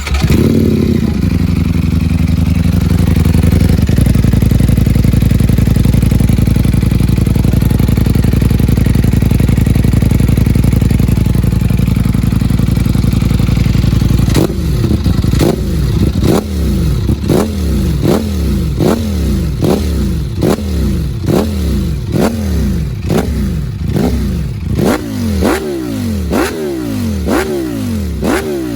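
Ducati Panigale V4S's V4 engine through an Akrapovic full titanium race exhaust, just started: the idle settles down from a higher pitch in the first second or two and runs steadily. About halfway through it breaks into a run of quick throttle blips, roughly one a second, each rev rising sharply and dropping back.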